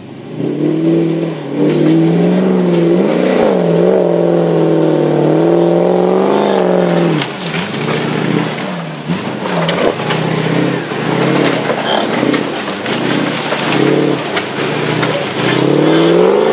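Land Rover Discovery's engine working hard as the truck climbs a steep, rutted mud track. It is held at high revs for about seven seconds, then revved up and down in repeated surges, with scattered sharp cracks and snaps.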